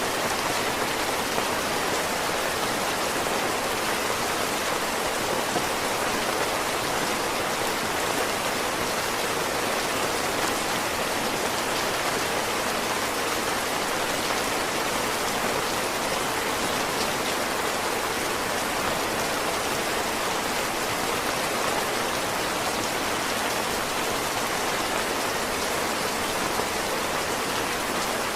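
Heavy rain falling steadily, a dense, even hiss of water that does not let up.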